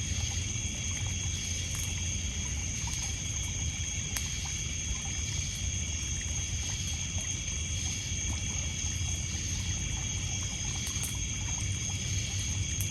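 Lakeside night ambience: insects chirring steadily in several high, unbroken tones over water lapping on a pebble beach, with a couple of sharp crackles from a wood campfire.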